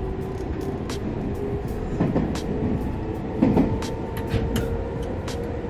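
Osaka Loop Line commuter train heard from inside the car while it runs: a steady rumble of wheels on the track with a steady motor whine and scattered light clicks.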